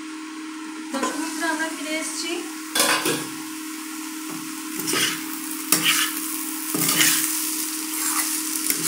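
Julienned potatoes sizzling as they fry on raised heat, stirred with a spatula in repeated scraping strokes against the non-stick pan. The sizzle gets louder about a second in, over a steady low hum.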